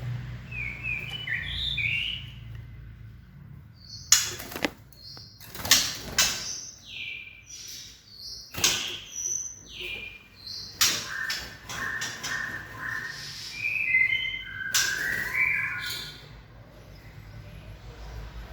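Young white-rumped shamas chirping, a string of short calls and whistled notes, some sliding up or down in pitch. Several sharp knocks or clicks cut in, and they are louder than the calls.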